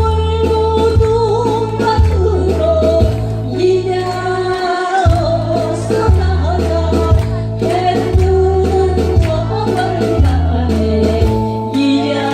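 Korean trot song: a solo voice singing a wavering, sliding melody over accompaniment with a steady, even bass beat.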